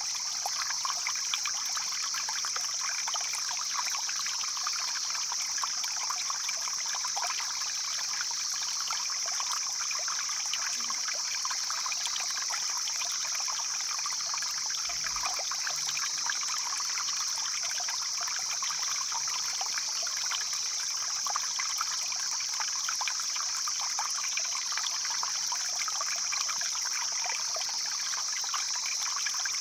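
Mountain stream flowing, a steady rush and trickle of water over stones with no break.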